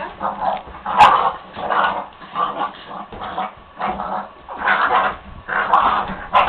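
Dogs play-fighting, growling and giving short barks in quick bursts, one every half second to a second.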